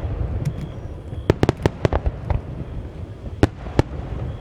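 Aerial fireworks bursting: a string of sharp cracks in quick succession about a second in, then two more strong cracks a little past three seconds, over a continuous low rumble.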